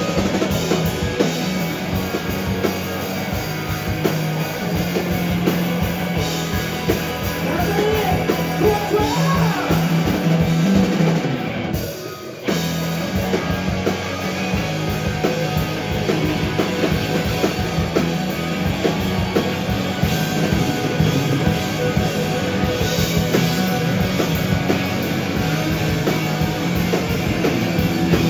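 Live rock band playing an instrumental stretch with drum kit and guitars. About twelve seconds in the band briefly stops, then comes back in all at once.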